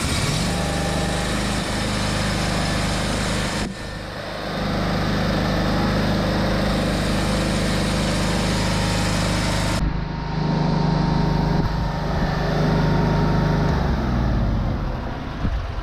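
The fuel-injected Briggs & Stratton engine of a Scag V-Ride 2 stand-on mower running steadily on fresh oil after its first break-in oil change, run to check for leaks. The engine note shifts about ten seconds in and settles lower near the end.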